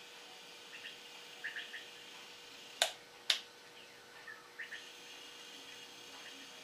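A bird chirps faintly a few times, with two sharp clicks about half a second apart near the middle, over a faint steady hum.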